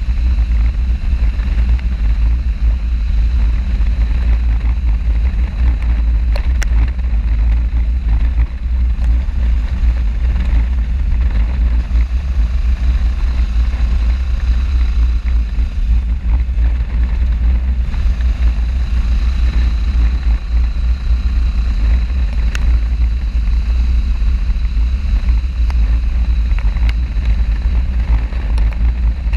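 Motorcycle riding at a steady speed: heavy, even wind rumble on the camera microphone over the engine's drone.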